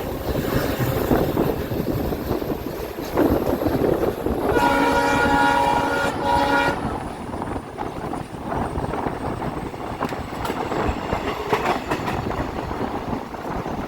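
Diesel-hauled passenger train running along the track with steady wheel and wind noise. About four and a half seconds in, the WDP4B diesel locomotive's horn sounds one blast of about two seconds.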